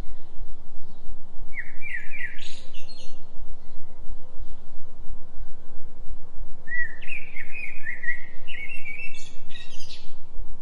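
A songbird sings two phrases of quick sliding chirps, a short one about two seconds in and a longer one from about seven seconds in. Under it runs a steady low throbbing tone, a 3 Hz delta binaural-beat track, which is the loudest part throughout.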